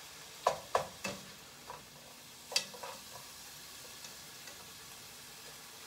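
Beef and sliced onion sizzling steadily in a hot pan while being stirred with tongs, which click against the pan several times in the first three seconds.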